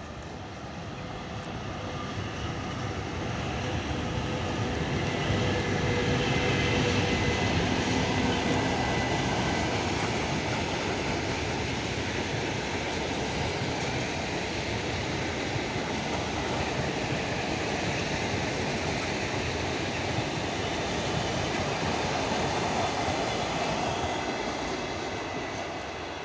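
Train pass-by: a VL80k electric locomotive hauling a rake of ER9M electric-train cars, growing louder over the first several seconds as it nears, then the steady rolling noise of the cars' wheels on the rails going past, fading near the end. A thin steady whine sits over the noise during the approach.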